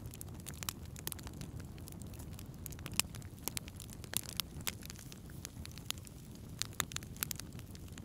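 Wood fire burning in a fireplace: a steady low rumble of flame under many sharp, irregular crackles and pops.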